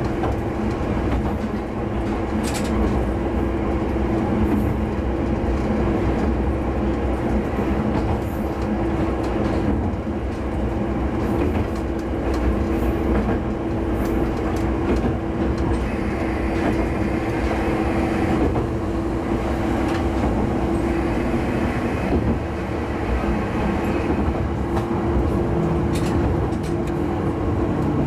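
Diesel railcar running steadily between stations, its engine giving a constant drone, with occasional sharp clicks from the wheels passing over rail joints.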